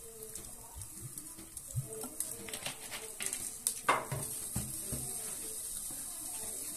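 Ground meat and chopped onion frying in a stainless steel pot with a soft, steady sizzle as oil is poured in. A few light knocks and clinks against the pot fall between about two and five seconds in.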